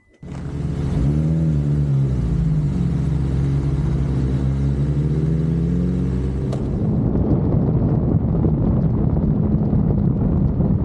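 Sport bike engine running under way, its pitch rising and falling as the throttle changes. About six and a half seconds in the sound changes suddenly to heavy wind buffeting on the microphone over the engine.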